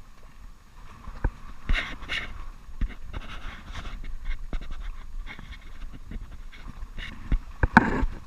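A man breathing hard and fast in repeated panting breaths, with scattered knocks and bumps from the small inflatable boat; the loudest knock comes near the end.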